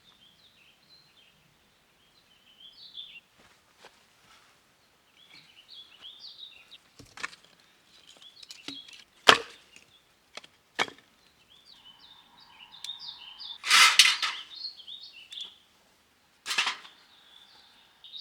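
Small birds chirping, broken by several sharp wooden cracks and knocks. The loudest come about nine seconds in and around fourteen seconds in.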